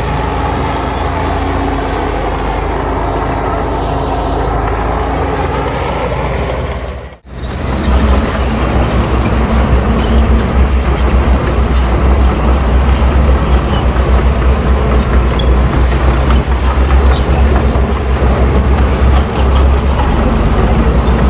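Heavy diesel earthmoving equipment running, with a steady engine note and a higher whine. About seven seconds in, the sound cuts out for a moment, then comes back louder with a low, fast-pulsing engine note.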